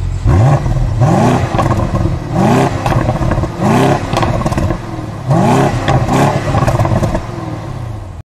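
Car engine revved in several quick blips, each rising sharply in pitch and falling back, cutting off suddenly near the end.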